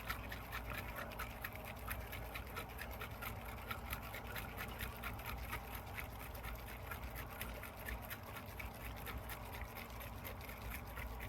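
An aerosol can of spray foam being shaken hard and fast for about 30 seconds to mix it before spraying, a rapid even rattling and sloshing.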